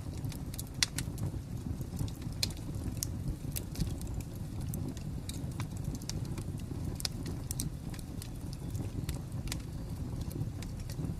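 Fire crackling: a steady low rumble of burning with irregular sharp pops and crackles, one louder pop about a second in.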